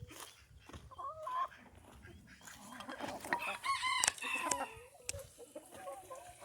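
Chickens clucking, with a rooster crowing about three seconds in.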